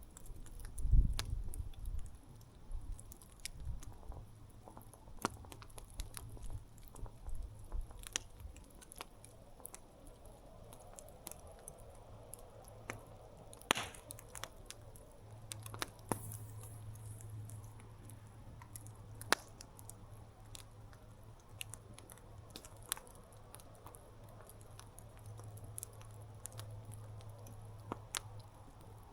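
Wood campfire crackling, with irregular sharp pops and snaps. A low rumble comes and goes in the first several seconds, loudest about a second in.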